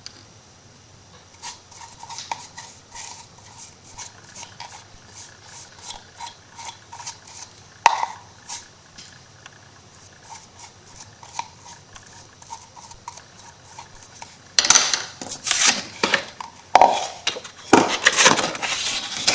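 Hands working paper onto a small MDF wooden box on a tabletop: scattered light taps and rubbing with one sharp knock about eight seconds in, then a louder run of scraping, rustling and knocking in the last five seconds.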